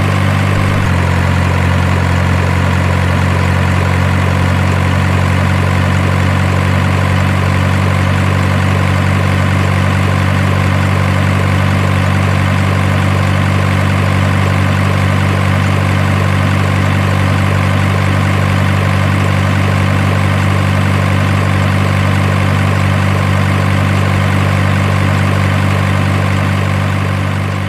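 Truck engine idling with a steady, deep, unchanging rumble, fading out near the end.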